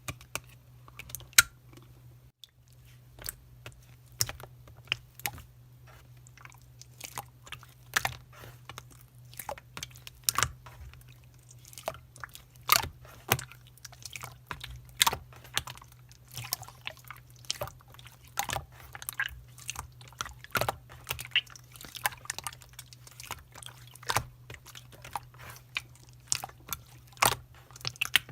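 Slime being kneaded and pressed by hand, making crisp, irregular clicks and pops several times a second, over a steady low hum.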